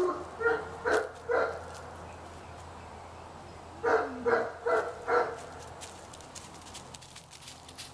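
A dog barking in two runs of short barks: three near the start, then four more about four seconds in.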